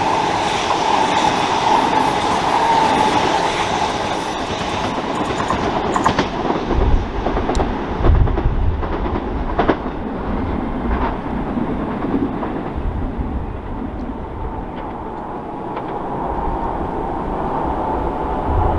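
Electric multiple-unit train running through the station. A steady whine sounds near the start, then the wheels clack over the rail joints with a low rumble for several seconds, and the sound thins out as the train draws away.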